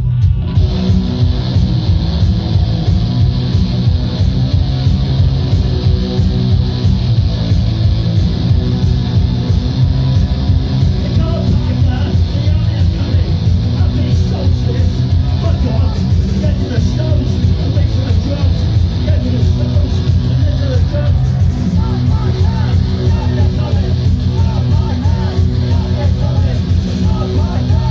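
Live punk band playing loud and fast: distorted electric guitars, bass and rapid drumming.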